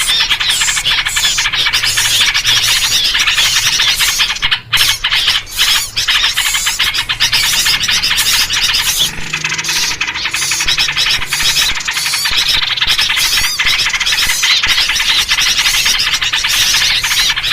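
A loud, dense chorus of agitated small songbirds, mainly yellow-vented bulbuls (trucuk), chattering and calling over one another without a break. This is the noisy alarm chatter used in lure recordings to draw other small birds in.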